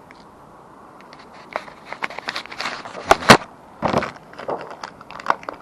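Plastic packets rustling and crinkling as small new motorcycle fuel taps are handled and taken out, in irregular bursts with two sharp clicks a little after three seconds in.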